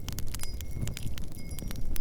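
Wood fire crackling in a fireplace, a quick scatter of sharp pops and snaps over a steady low rumble of wind.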